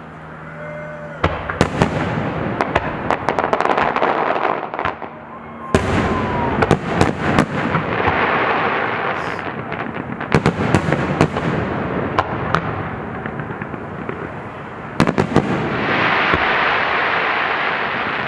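Fireworks bursting: several sharp bangs, each followed by a long spell of crackling and rapid pops.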